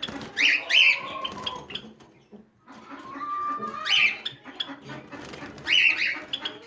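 Java chickens giving short, sharp calls, mostly in pairs: two near the start, then more around four and six seconds, with a brief lull in between.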